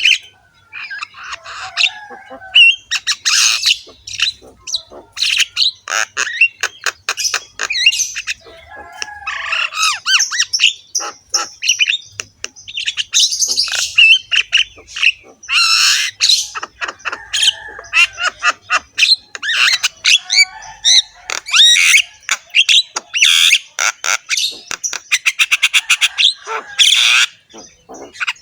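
Javan myna (jalak kebo) in full song: a long, varied run of harsh squawks, whistles and chattering notes, with a fast rattle of clicks near the end.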